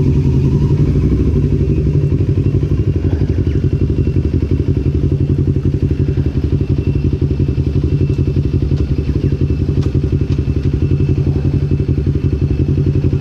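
Motorcycle engine running steadily at a constant, unchanging pitch with an even, rapid exhaust pulse, as at idle.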